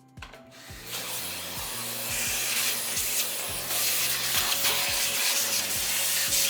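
A steady, hissing rubbing or scraping noise, like work on a surface, sets in about a second in and continues over background music with a steady beat.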